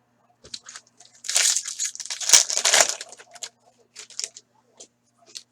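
Foil trading-card pack wrapper crinkling as it is handled, a dense burst lasting about two seconds starting a second in, followed by a few light taps and clicks of cards being handled.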